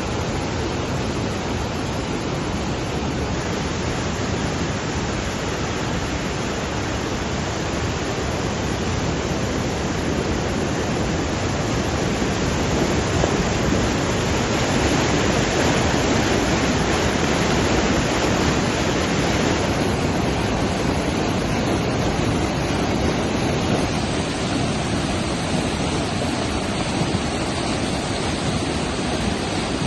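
Fast-flowing floodwater rushing steadily, a continuous even wash of water noise.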